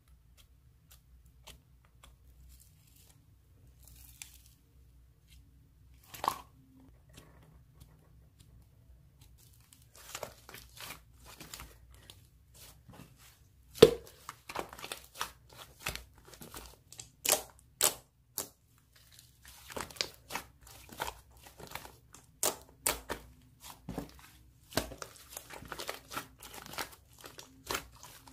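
Slime being pressed and stretched by hand, giving crackling clicks and pops. They are sparse at first and come thick and fast from about ten seconds in, with one sharp snap near the middle.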